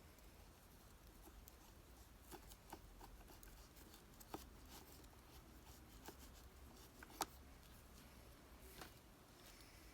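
Faint, sparse small clicks and scratches over a low steady rumble, the sharpest click about seven seconds in.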